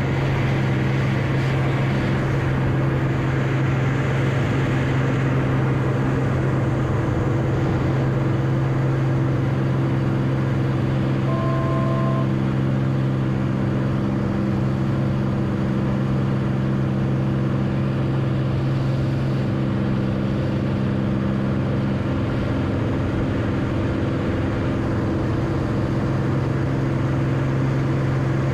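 Beechcraft Bonanza's piston engine and propeller droning steadily as heard in the cockpit, with a brief two-tone beep about twelve seconds in.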